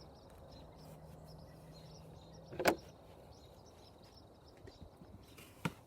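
A door being opened: a loud knock or latch clack about two and a half seconds in, then a sharper click near the end, over faint steady background noise.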